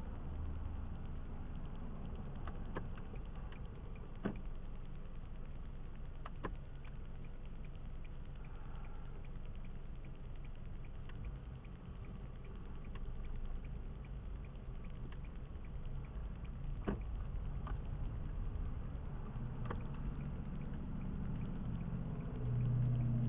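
Car cabin noise while driving, picked up by a dash cam: a steady low rumble of engine and tyres on the road, with a few short sharp clicks or knocks scattered through.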